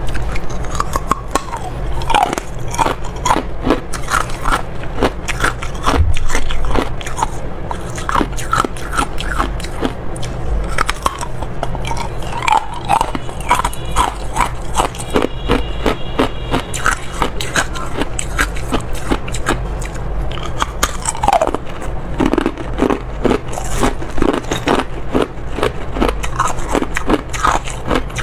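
A person biting and chewing ice, a steady run of sharp crunches and cracks several times a second.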